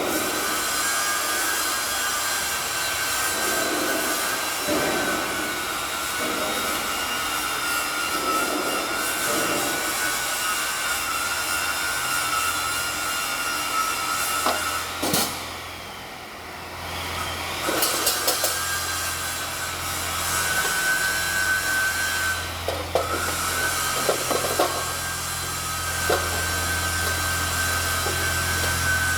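A handheld power tool running with a steady high whine, working against metal with scraping and occasional knocks. It stops about halfway through and starts up again a second or two later.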